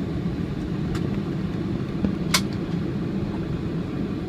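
Steady low rumble of a Boeing 747-400's cabin noise heard from a passenger seat, with a sharp click about two seconds in.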